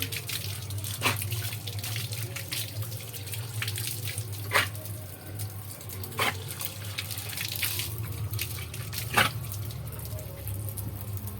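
Water running from a tap and splashing, with four sharp knocks or splashes, while a golden retriever's paws are being washed.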